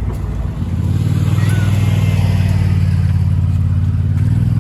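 A motor vehicle's engine running close by, loud and steady with a low hum, building up over the first second.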